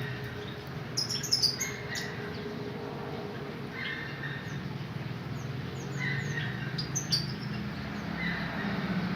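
Canaries chirping in short, high calls: a quick cluster of loud chirps about a second in, then scattered single chirps, over a steady low hum.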